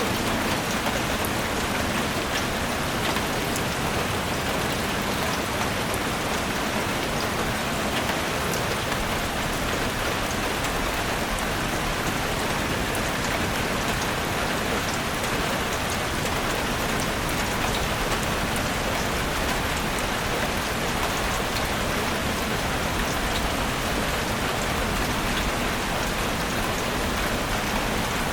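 Steady rain falling in a forest, a dense even hiss with fine scattered drop patter.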